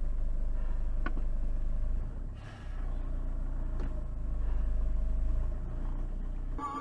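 A car driving, heard from a dash cam: a steady low rumble of engine and road, with a faint click about a second in and another near four seconds.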